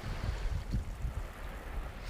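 Ocean surf in a lull between breaking waves: a low, fluttering rumble of the sea with only a faint wash of water above it.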